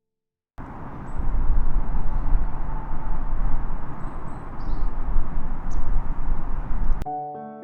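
Loud outdoor ambience: an even rushing noise with a heavy low rumble and a few faint high chirps, cut in abruptly about half a second in and cut off abruptly near the end.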